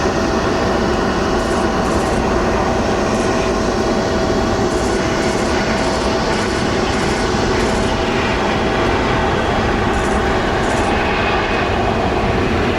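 Jet aircraft engines running: a steady, loud rush with a held whine in it that fades out about eight seconds in.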